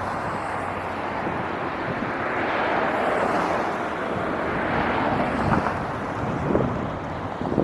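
Wind rushing over the microphone, swelling and easing off over a few seconds, with a few faint knocks near the end.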